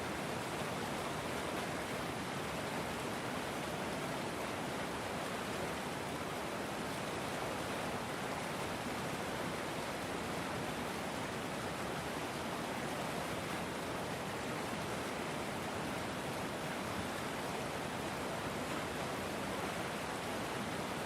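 River water flowing in a steady, even rush with no changes.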